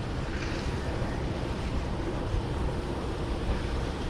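Wind buffeting the microphone during a bicycle ride: a steady, low rushing noise.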